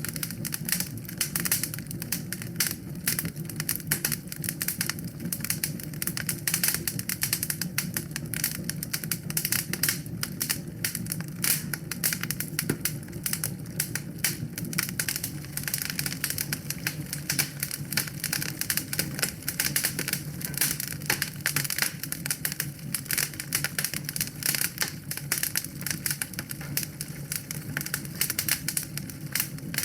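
Wood fire crackling in a fireplace: rapid, irregular pops and snaps over a steady low sound of the burning.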